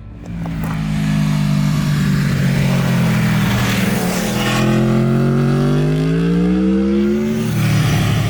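Aprilia Tuono V4 Factory 1100's V4 engine pulling under throttle, its revs climbing steadily for several seconds, then dropping sharply near the end.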